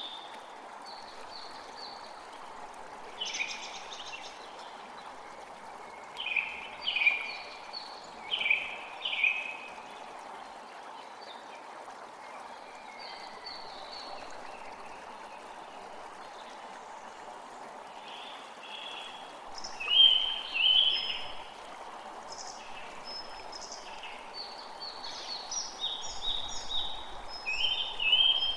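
Steady rush of flowing stream water, with birds calling over it in repeated groups of short chirps every few seconds, loudest about twenty seconds in.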